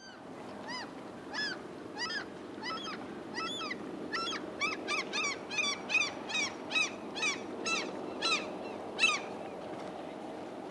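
A seagull calling over and over: a run of about seventeen harsh, honking calls that come quicker, about two a second, from around four seconds in, and stop after about nine seconds, over a steady low background noise.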